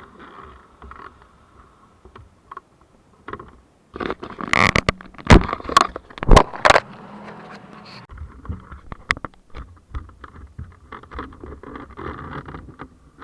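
A series of sharp knocks and scrapes, loudest in a cluster from about four to seven seconds in, over a faint low rumble.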